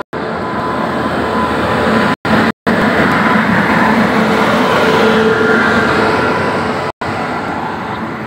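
Passenger train arriving: a WAP-7 electric locomotive and its coaches rolling past at close range, with a steady rumble of wheels on rail and a few faint whining tones over it. It grows louder toward the middle and eases near the end. The sound briefly cuts out a few times.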